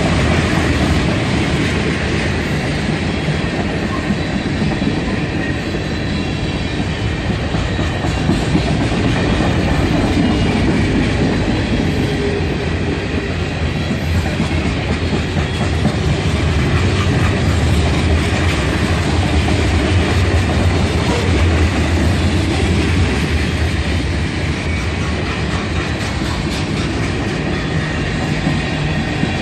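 A train rolling past at close range, its railcar wheels clacking over the rail joints in a steady, loud rumble.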